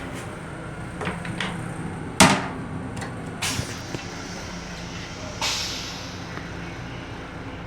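Knocks and clunks of a restroom door and its latch, the loudest a sharp bang about two seconds in, with a swish that fades away a little later, over the steady rumble and hum of a Metro-North M7 railcar.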